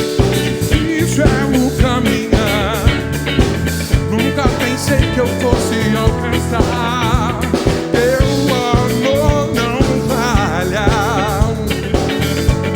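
Live band playing a soul-groove jam: drum kit keeping a steady beat, bass and guitar, with a lead melody bending and wavering in strong vibrato.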